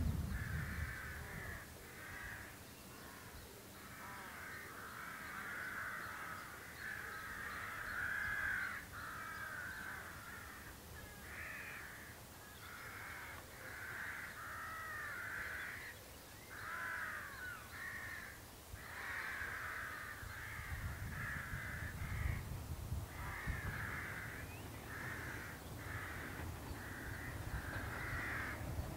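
Birds calling repeatedly in short harsh bouts. From about two-thirds of the way in, the low rumble of an approaching diesel locomotive's engine builds up underneath.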